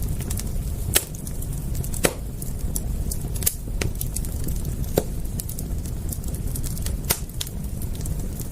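Wood fire crackling: sharp pops every second or two and many small ticks, over a steady low rumble.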